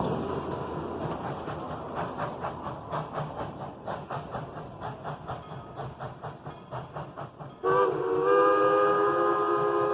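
Narrow-gauge steam locomotive working with a regular beat, about three strokes a second, then about three-quarters of the way in its steam whistle sounds a loud, steady, multi-toned chime that slides up slightly as it starts.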